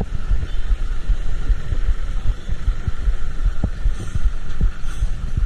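Wind buffeting a microphone on a moving vehicle in traffic: a dense low rumble full of irregular thumps over a steady hum.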